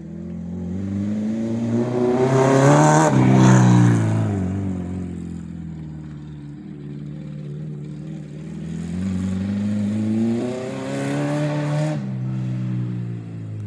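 Acura RSX's four-cylinder engine under hard throttle. Its pitch climbs to a loud peak about three seconds in and then falls away. It climbs again and breaks off sharply near the end.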